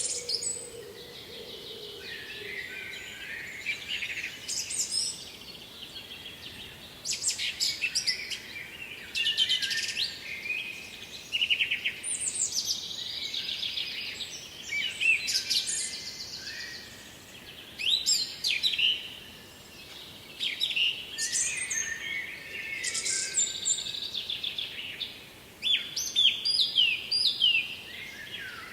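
Several songbirds singing, short high phrases and rapid trills overlapping and following one another throughout.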